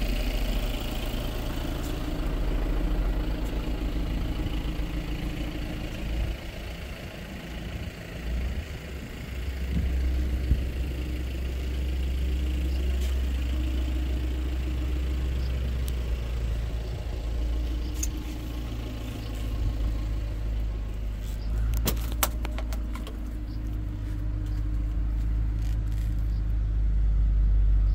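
Cadillac Escalade's 6.2-litre V8 idling steadily, a low even drone, with a few sharp clicks about three-quarters of the way through.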